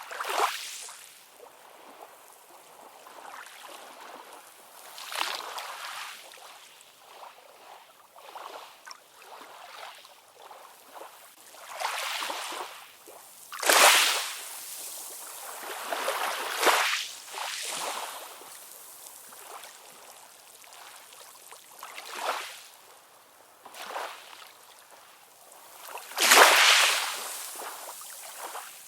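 Ocean waves splashing and washing in, a surge every few seconds, with hardly any low rumble. The loudest surges come near the middle and near the end.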